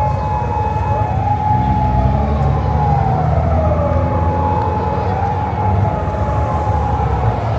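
Emergency vehicle siren wailing, its pitch sweeping slowly up and down every few seconds, with a steady held tone alongside and low engine rumble beneath.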